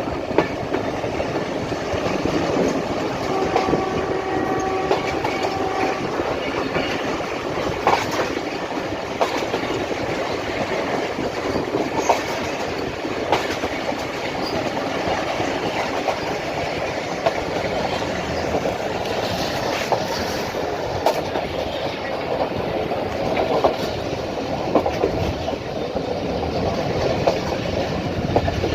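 Passenger train running along the track: a steady rumble with wheels clicking over rail joints at uneven intervals. A faint steady tone with overtones sounds for about three seconds, a few seconds in.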